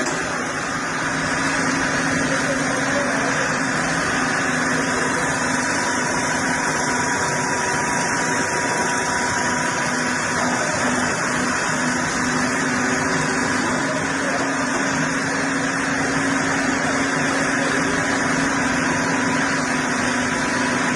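Engine of heavy machinery running steadily with an even hum throughout.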